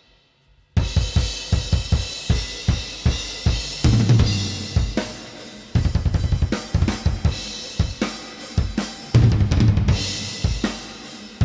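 Recorded metal drum kit playing back: very fast kick-drum strokes with snare and cymbals. Playback is silent at the start and comes in under a second in.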